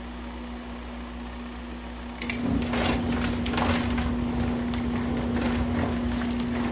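Compact washing machine with a steady hum. About two seconds in, a click and then the wash cycle's agitation starts up, louder, churning the water and clothes in short strokes.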